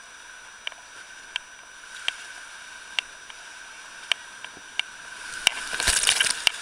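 River water rushing through a whitewater rapid, with a series of sharp knocks at irregular intervals and a loud burst of splashing about a second before the end.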